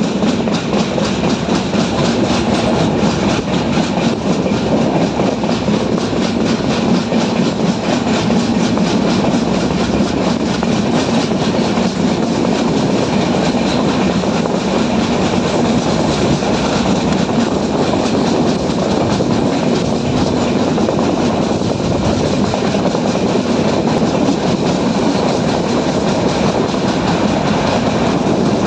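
Passenger train running along the track, heard from an open carriage doorway: a loud, steady rush of wheel and rail noise that does not let up.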